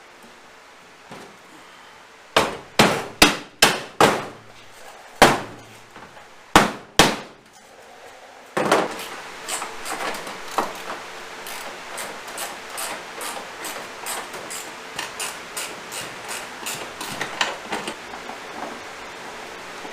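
Hammer blows: about eight sharp strikes in quick groups over a few seconds. Then a steady rasping noise peppered with small clicks.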